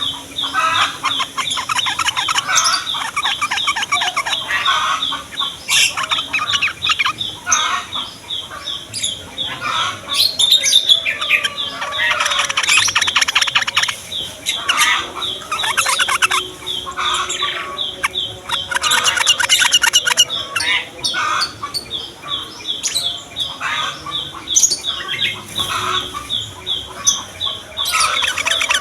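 Yellow-vented bulbuls (trucukan) singing and chattering: a steady string of short repeated notes with bursts of fast trills over it.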